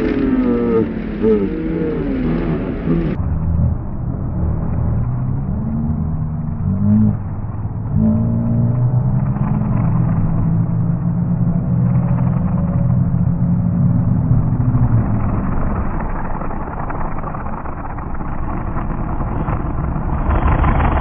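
Demolition derby cars' engines revving hard while the cars are locked together pushing, the pitch rising and falling again and again.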